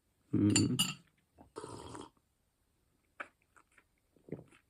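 Tableware clinking and knocking while syrup is added to a mug of tea: a loud knock with a ringing clink near the start, a short rushing noise about a second and a half in, then a few light taps.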